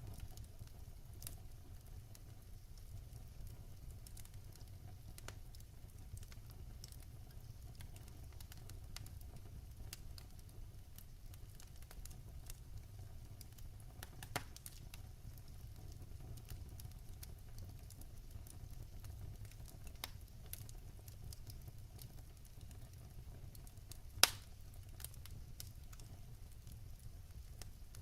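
Wood fire burning in a fireplace: a steady low rumble of the flames with scattered crackles and sharp pops, the loudest pop about 24 seconds in.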